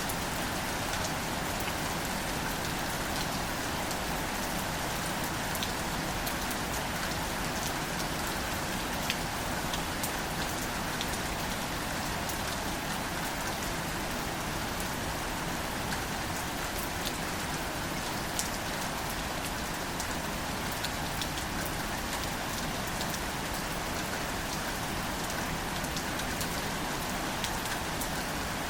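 Steady light rain falling on wildflowers and leaves, a continuous soft hiss dotted with the sharp ticks of single drops.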